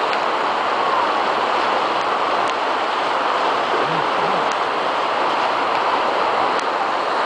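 Steady rushing noise of heavy rain and running water, even and unbroken, with a few faint clicks.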